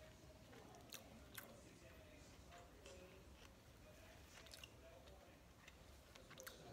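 Faint close-up chewing of a burger, with a few soft wet mouth clicks over a low background hum.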